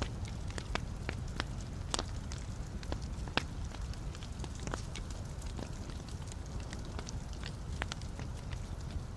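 Wood logs burning in a fireplace: a steady low rumble of flames with sharp, irregular crackles and pops, several a second.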